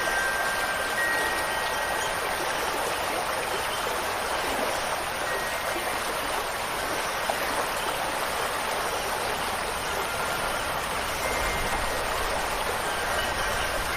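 Steady rushing water from a stream or rain, an even hiss with no breaks. A few faint, ringing wind-chime notes sound near the start and again near the end.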